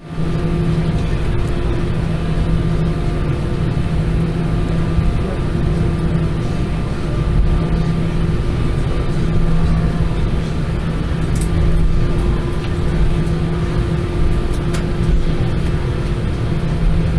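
Airbus A320 cabin noise: a steady low rumble with a few constant hum tones that fade in and out, and a couple of faint clicks.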